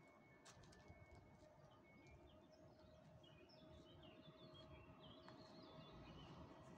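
Near silence: faint outdoor ambience with a small bird chirping in quick runs of short notes from about two seconds in, over a faint low rumble and a faint steady hum.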